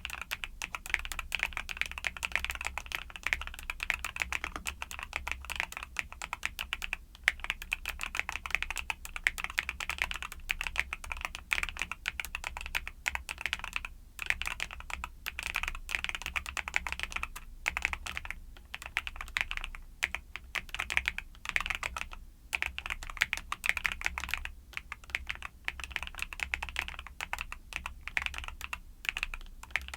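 Continuous fast typing on a YUNZII mechanical keyboard with Cocoa Cream switches: a dense stream of key clacks, broken by a few short pauses.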